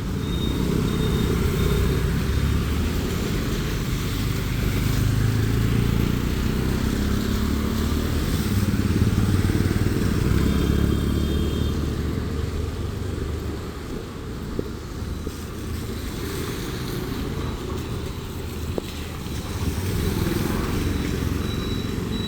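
Street traffic: motorcycles and cars passing on the road, a continuous engine and tyre rumble that swells and eases as vehicles go by.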